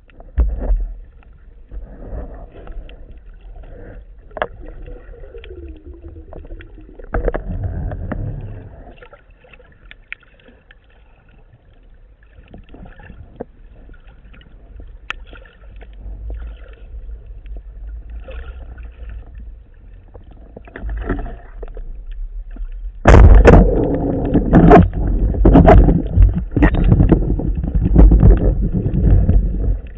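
Water sloshing and gurgling against a waterproof camera housing, with scattered clicks and knocks; about three quarters of the way through it turns much louder and busier, like heavy splashing.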